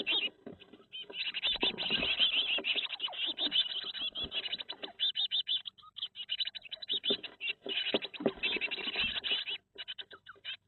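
Blue tit nestlings calling in a dense, rapid chorus of high chirps, stopping briefly twice, with a few knocks and rustles of movement in the nest box.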